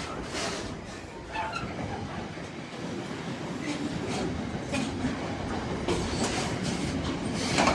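Long freight train's wagons rolling past on the main line: a steady rumble of wheels on rail, with sharp clicks as wheels cross rail joints every second or so.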